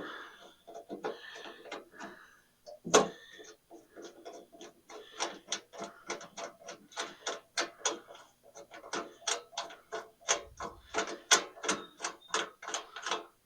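A ratcheting mechanism being worked: a long run of rapid, evenly spaced mechanical clicks, about four a second, after a couple of louder knocks near the start.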